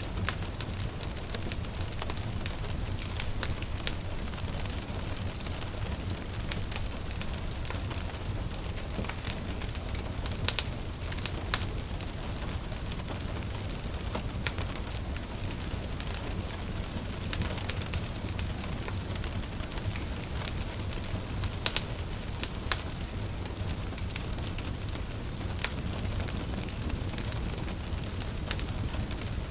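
Wood fire crackling in a fireplace, with frequent sharp pops, two louder ones about ten and twenty seconds in, over a steady patter of gentle rain and a low rumble.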